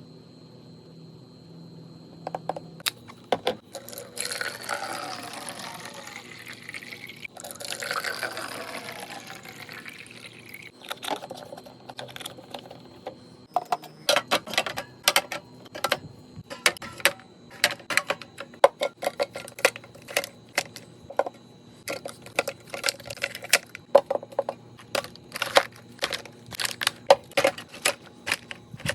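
Liquid poured into a container in two pours, each a few seconds long, followed by a long run of quick clicks and taps as containers and items are handled and set down.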